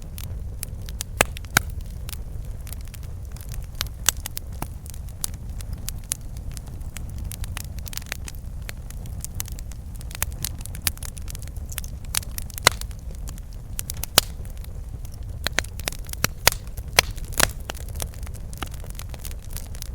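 Campfire burning, with irregular sharp crackles and pops of burning wood over a steady low rumble of the flames.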